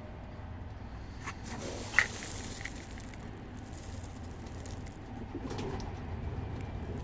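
Racing pigeons cooing softly, with a single sharp click about two seconds in.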